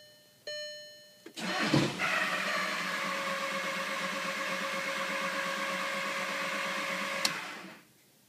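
A dashboard chime rings, then about a second in the starter cranks the Volkswagen Jetta TDI's diesel engine for about six seconds without it firing: a brief lurch at first as if it wants to catch, then steady, even spinning over. It is a crank-but-no-start, which began after water was drained from the fuel filter, though fuel is reaching the injectors.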